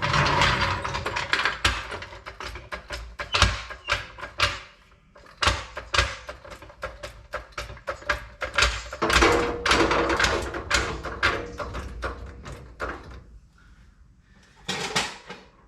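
Floor jack being brought under the vehicle and set in place: a busy, irregular run of metal clatters, clicks and knocks in several stretches, with a short pause near the end.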